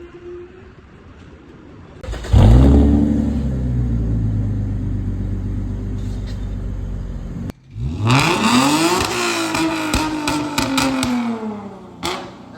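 Toyota 2GR-FSE 3.5-litre V6 revved through a stainless valvetronic exhaust with its valves open. The revs jump sharply about two seconds in and sag slowly. Then they climb again and fall back, with a short blip near the end.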